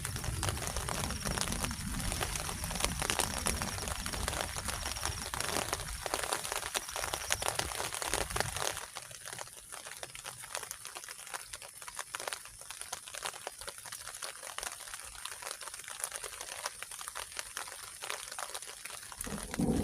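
Steady rain falling, many fine drop impacts in a constant hiss. A low rumble underneath drops away about nine seconds in.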